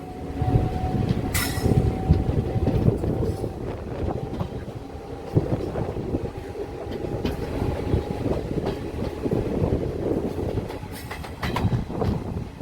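Passenger train running along the track: a steady heavy rumble full of wheel clatter and knocks over the rail joints. A faint steady tone runs under it and ends a little past the middle, and a brief high squeal comes about a second and a half in.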